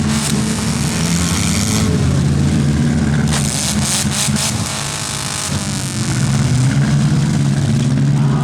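Compact demolition derby cars' engines running and revving, their pitch rising and falling. A cluster of short crashes comes a little over three seconds in, from cars ramming each other.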